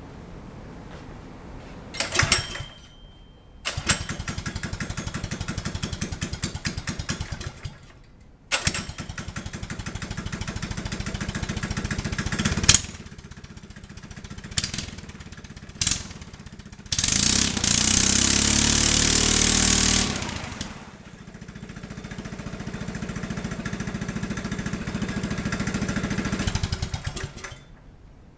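A micro ATV's 212cc Predator single-cylinder engine running through a short exhaust pipe. It cuts out briefly and starts again, is revved up and down, and goes to a loud full-throttle run of about three seconds with a rising note before dropping back. It stops near the end.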